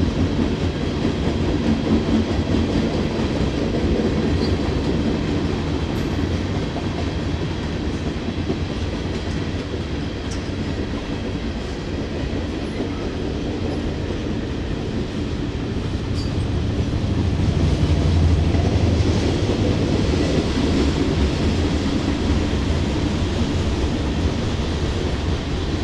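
Freight train rolling past: tank cars and covered hoppers running on the rails with a steady low rumble and wheel clatter, growing a little louder about two-thirds of the way through.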